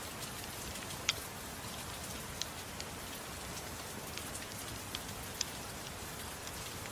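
Steady soft rain hiss with a wood fire crackling over it: a few sharp, separate pops, the loudest about a second in and more in the second half.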